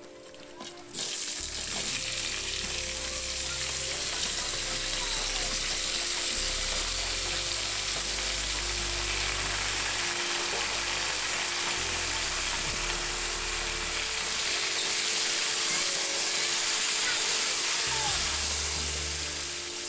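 Food sizzling steadily as it fries in hot oil in a pan. The sizzle starts abruptly about a second in and fades away near the end.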